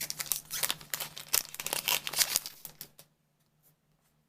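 Booster-pack foil wrapper crinkling and tearing in the hands for about three seconds, then it stops.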